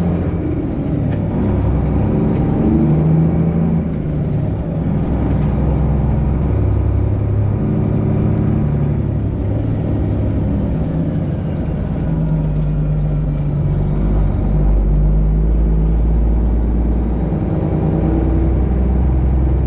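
Semi truck's Detroit Diesel 12.7 engine running while driving: a steady low drone whose pitch shifts up and down.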